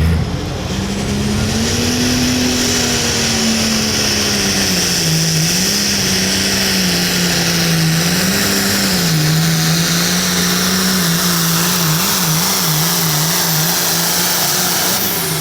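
Hot farm class diesel pulling tractor engine running hard at high revs under load. Its pitch holds mostly steady, with a slight rise early on and several quick wobbles near the end.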